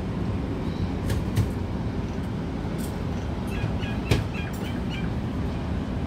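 Steady low rumble with a few sharp clicks over it. About three and a half seconds in, a bird chirps several times in quick succession.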